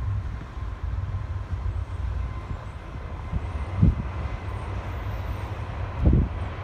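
Low, steady rumble of a freight train's diesel locomotives, with a faint steady high tone over it. Two dull thumps, about four and six seconds in, are the loudest sounds.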